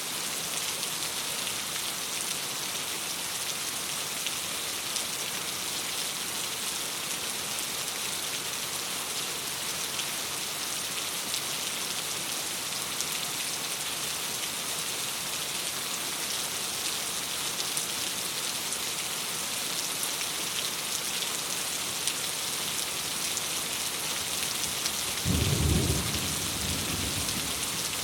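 Steady rain pattering on a window, with a short low thunder rumble near the end.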